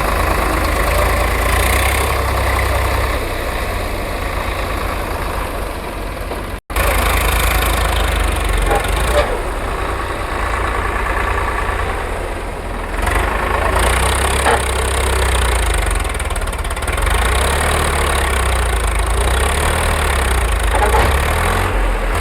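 Tractor engine running steadily at idle, with a heavy low rumble. The sound cuts out completely for a moment about six and a half seconds in.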